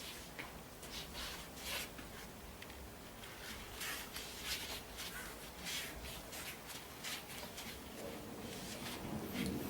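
Irregular rustling and scraping, a string of short scrapes and rubs about half a second to a second apart.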